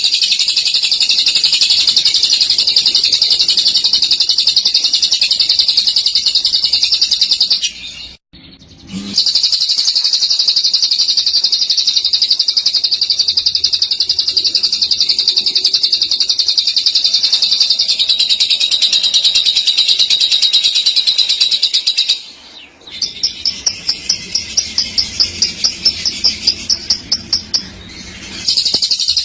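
Lovebird's long, high-pitched chattering trill (the 'ngekek' song), running on without a break for many seconds. It stops twice for about a second; after the second stop it comes back as a quicker run of separate pulses, about four a second, before the continuous chatter resumes near the end.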